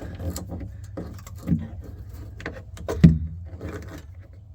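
Scattered small metallic clicks and clinks of tools and refrigerant tubing being handled, with one louder knock about three seconds in, over a low steady hum.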